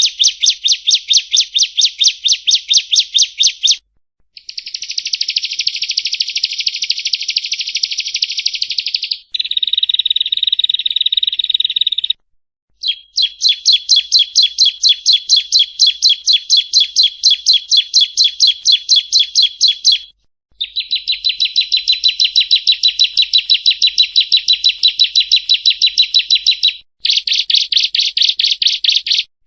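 Prenjak rowo (yellow-bellied prinia) singing: long, rapid trills of repeated high chirps in phrases a few seconds long, some denser and buzzier, each cut off abruptly by a brief gap before the next begins.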